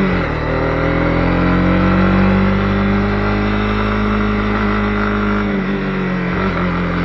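Honda CB250R's single-cylinder engine running under way. Its pitch drops right at the start, then climbs gently and holds steady. It eases off again a little past halfway.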